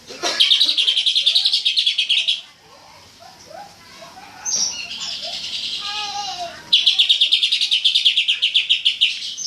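Cucak ijo (green leafbird) singing its rapid-fire 'tembakan' phrases: two loud bursts of fast repeated notes, one near the start lasting about two seconds and one over the last third, with a softer warbling phrase between them.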